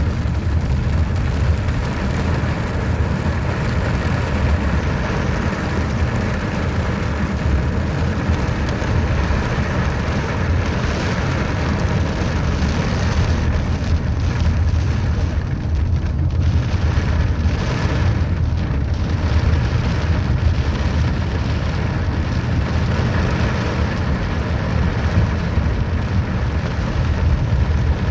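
Rain falling steadily, with a constant low rumble underneath.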